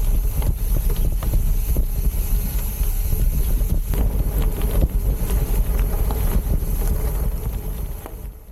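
Wind buffeting the microphone of a moving gravel bike, over the low rumble of its tyres and the rattle and knocks of the bike on a rough trail.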